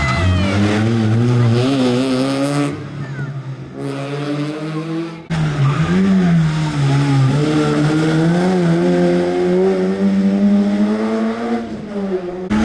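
Rally car engine revving hard through the gears, its pitch climbing and dropping with each shift. The sound drops away for a couple of seconds and comes back abruptly about five seconds in, with an engine revving hard again.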